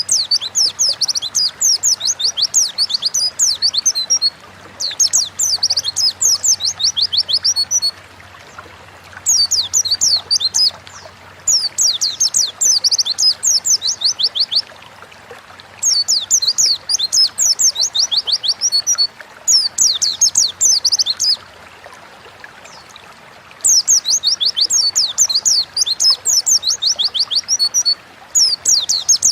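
White-eye (pleci) singing in loud, rapid twittering phrases of high chirping notes, each phrase lasting two to four seconds with short pauses between.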